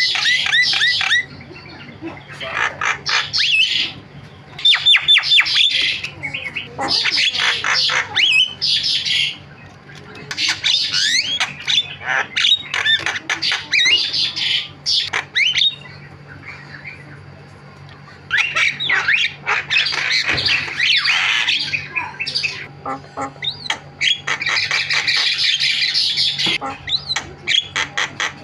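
Javan myna singing a loud, varied chatter of squawks, whistles and scratchy notes. It comes in bursts of one to five seconds with short pauses between them.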